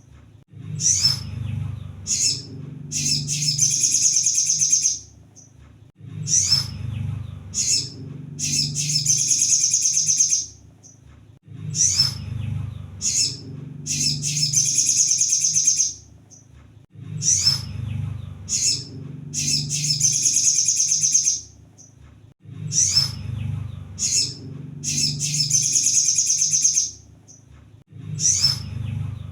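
Crimson sunbird (kolibri sogon) singing: a few short high chirps, then a rapid high-pitched trilled phrase of two to three seconds, repeated about every five and a half seconds, five times over. A low hum sounds under each phrase.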